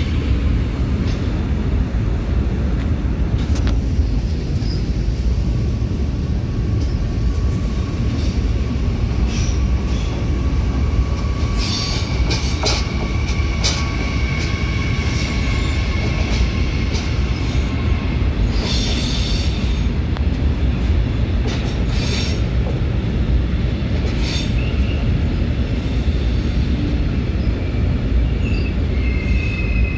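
ICE train rolling along the platform track close by: a steady low rumble of wheels on rail. Thin, drawn-out wheel squeals rise and fade over it, and there are scattered sharp clicks.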